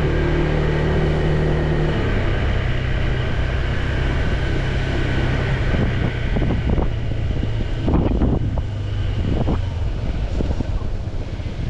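Motorcycle engine running steadily while riding, with wind buffeting the microphone. The engine note drops to a lower pitch about two seconds in, and a few short thuds come through about midway.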